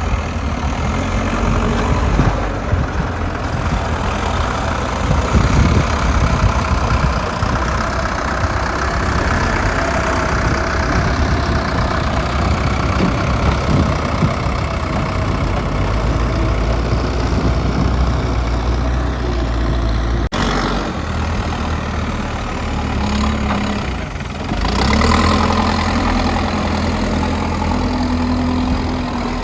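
Diesel engines of a backhoe excavator and a tipper truck running, with the engine note shifting as the machine works. There is a momentary dropout about twenty seconds in.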